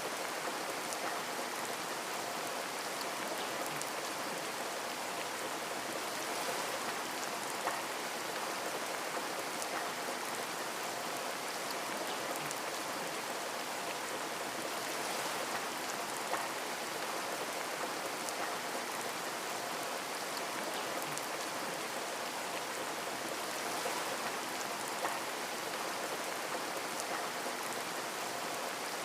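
Steady rain falling, a dense even hiss with scattered small drop ticks on a window.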